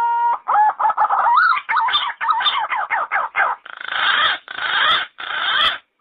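Yellow-footed green pigeon singing. A held whistle ends shortly after the start, then comes a quick run of wavering whistled notes, and the song ends with three harsher, rasping notes that stop just before the end.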